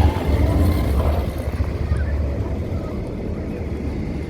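Low rumble of a Vekoma family launch roller coaster train running on its track, loudest at the start and slowly fading.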